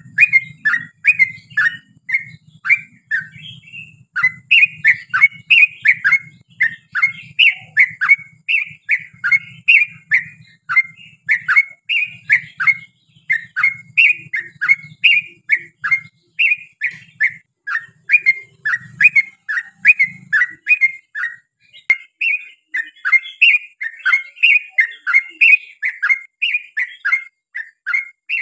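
Yellow-vented bulbul singing a long unbroken run of short, bubbly downslurred notes, about two to three a second.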